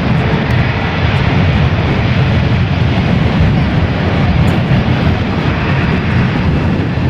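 Airbus A380's four Rolls-Royce Trent 900 turbofan engines at takeoff power: a loud, steady jet rumble, heaviest in the bass, with no breaks.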